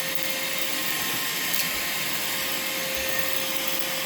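Vacmaster 2.5-gallon, 2-horsepower shop vacuum running steadily, a constant motor whine over the rush of suction air.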